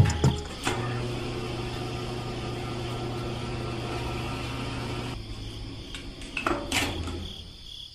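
Small electric motor of a homemade miniature concrete mixer running with a steady hum as it turns the drum of sand and cement. About five seconds in the hum drops away and a few light knocks follow.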